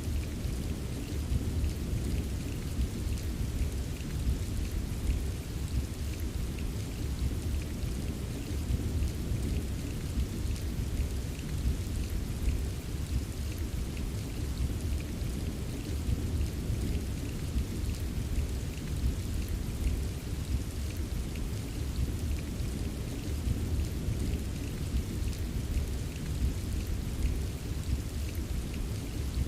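Steady rain with fine scattered drops tapping, over a continuous low rumble of distant thunder rolling.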